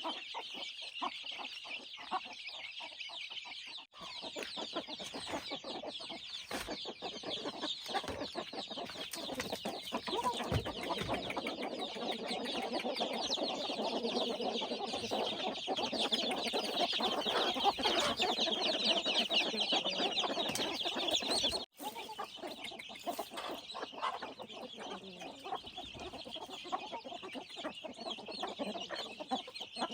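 Chickens clucking continuously, many short calls overlapping.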